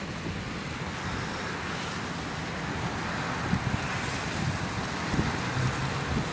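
Strong wind buffeting the microphone over the steady rush of surf, with a low rumble and a few short bumps from gusts about halfway in.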